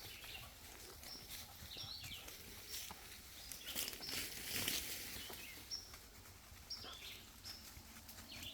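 Wild birds giving short, high chirps every second or so, over faint rustling footsteps on a woodland trail.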